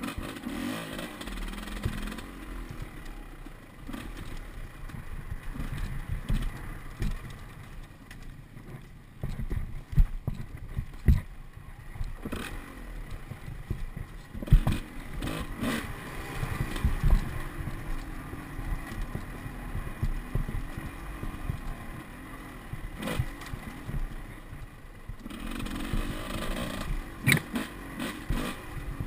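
Off-road enduro motorcycle engine revving up and down as it rides, with clatter and several sharp knocks, the loudest about ten and fifteen seconds in.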